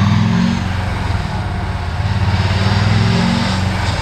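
Turbo diesel pickup engine running hard on a chassis dyno, its low note swelling twice.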